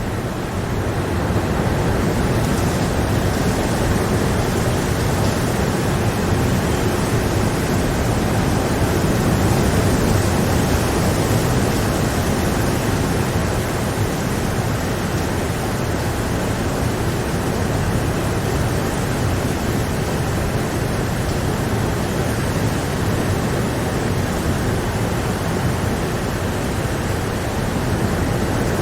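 Steady heavy rain, an even rushing hiss with no separate drops or other events standing out.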